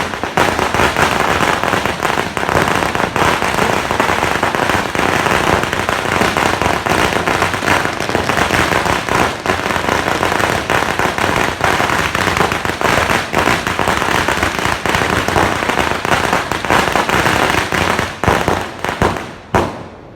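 New Year fireworks and firecrackers going off nonstop, a dense rapid crackle of overlapping sharp bangs that thins out and stops just before the end.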